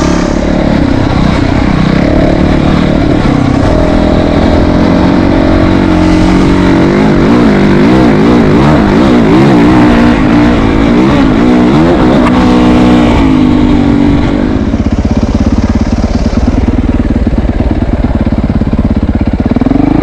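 Motorcycle engine revving unevenly, its pitch rising and falling repeatedly, then settling to a steadier, lower run with a rapid even pulse about two-thirds of the way through.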